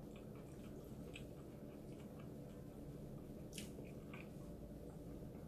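A person chewing a mouthful of rice and cooked vegetables (pinakbet) with her mouth closed: faint, soft wet chewing with small clicks, a few of them sharper.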